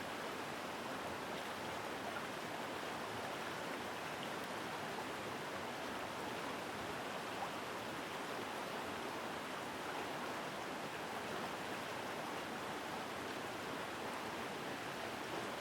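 Mountain stream flowing strongly through a forest: a steady, even rush of water.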